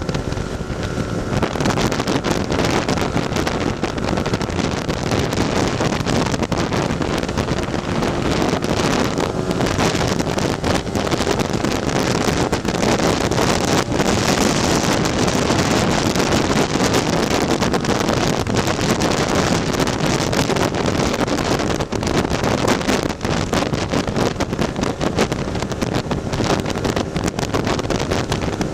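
Heavy wind noise on the microphone over a tuned Lambretta scooter's single-cylinder two-stroke engine running steadily at road speed.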